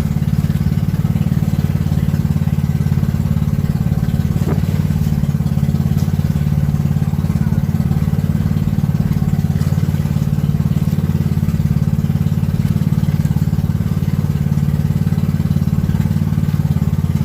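Vehicle engine and road noise heard while riding: a steady, loud low drone that doesn't change.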